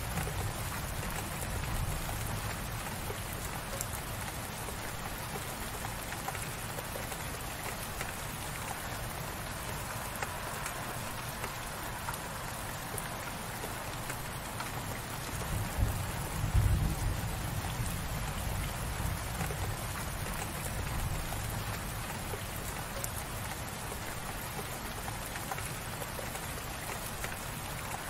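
Steady light rain falling, a dense even patter of drops. A bit past halfway, a brief low rumble rises and fades, the loudest moment.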